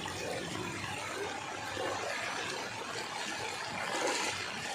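Steady rush of running floodwater, with faint voices in the background.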